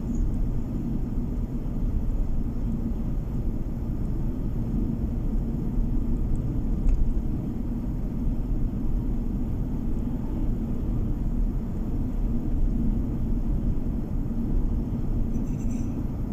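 A car driving along a road, heard from inside the cabin: steady low rumble of tyres and engine with a constant low hum.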